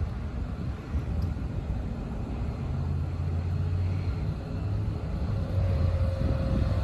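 Low, steady engine rumble of a vehicle outdoors, heavier from about the middle on, with a faint higher drone joining near the end.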